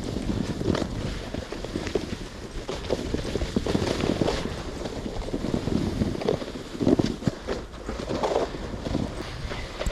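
Snowboard scraping and sliding over snow while huskies pull it, with irregular crunches and wind buffeting the microphone.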